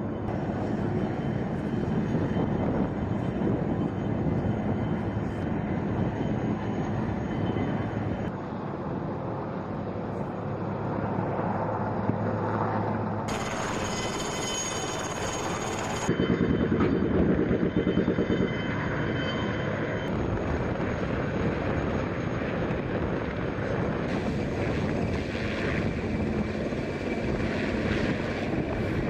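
Engine noise of military vehicles and aircraft, a steady running drone whose character changes abruptly several times as the shots cut.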